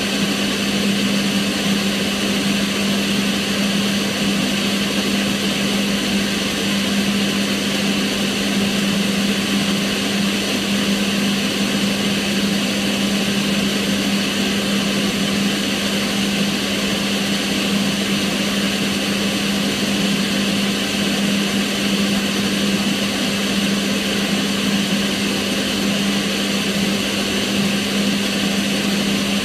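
Kitchen range hood's extractor fan running steadily, a continuous rush of air over a low motor hum.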